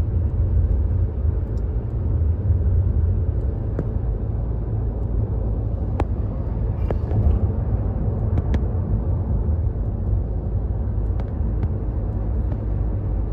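Wildfire burning: a steady low rumble with scattered sharp crackles.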